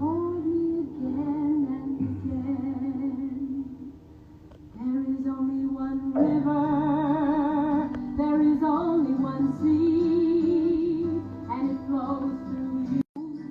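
Woman singing a gentle folk song to acoustic guitar, holding notes with a wide vibrato, with a short pause about four seconds in.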